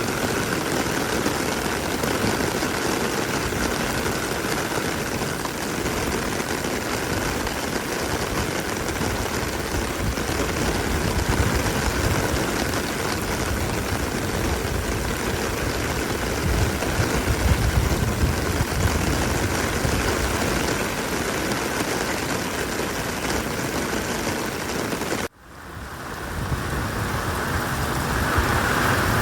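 Steady rain, an even hiss with a deeper rumble swelling around the middle. About 25 seconds in the sound cuts out abruptly and fades back up.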